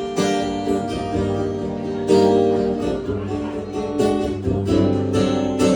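Acoustic guitar strummed in chords, restruck about once a second, with no singing.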